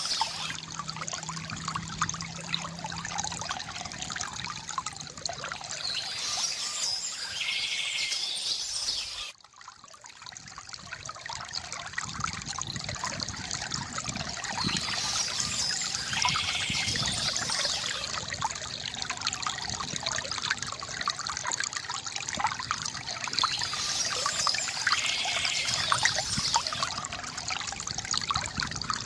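Water pouring and trickling steadily from a bamboo fountain spout into its basin, with a short bird call coming back roughly every nine seconds. About nine seconds in the sound drops away abruptly and swells back over a few seconds.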